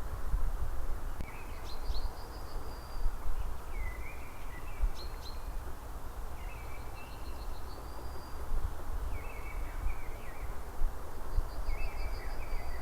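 A small songbird singing short phrases over and over, about five in all, one every two to three seconds; each phrase is a few notes followed by a higher, quick trill. A constant low rumble runs underneath.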